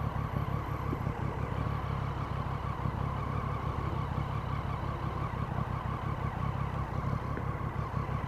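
Motorcycle riding at a steady pace: the engine runs evenly under road and wind noise, with no change in speed.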